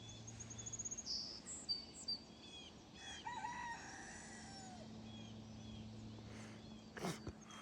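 Song sparrow singing, a rapid high trill and buzzy notes in the first second or so, among other small birds chirping. A rooster crows faintly in the middle. There are a couple of brief clicks near the end.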